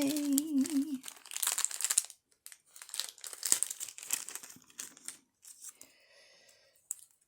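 Irregular crinkling and rustling of plastic packaging being handled and opened, in quick uneven bursts that thin out near the end.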